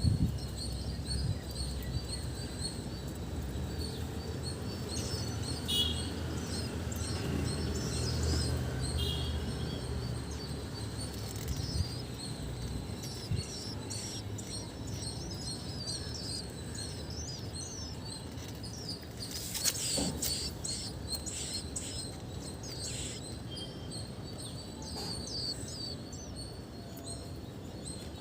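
Small birds chirping: many short, high chirps repeating throughout, over a low steady background rumble, with a brief knock about twenty seconds in.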